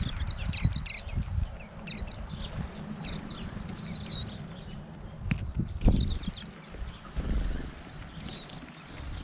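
A flock of waxeyes (silvereyes) calling while they feed: a stream of short, high chirps, many falling slightly in pitch, that thins out near the end. A low rumble runs underneath, and two sharp knocks come about five and six seconds in.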